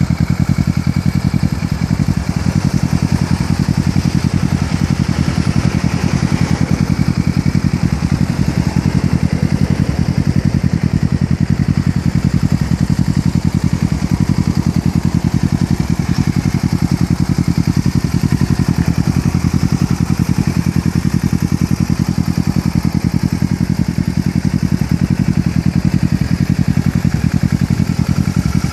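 2013 Kawasaki Ninja 650's parallel-twin engine idling steadily, fully warmed up, through a Two Brothers full-system aluminum aftermarket exhaust.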